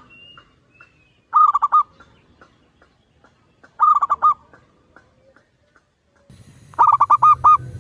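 Zebra dove cooing: three bursts a couple of seconds apart, each a quick run of several coo notes, the last run the longest. A low background rumble starts shortly before the third burst.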